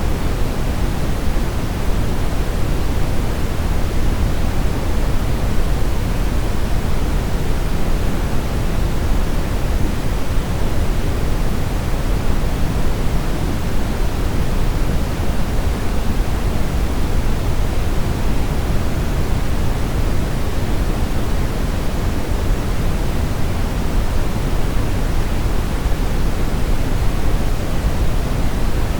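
Brown noise: a steady, even, deep rushing hiss, strongest in the low end and falling off in the highs, with no changes.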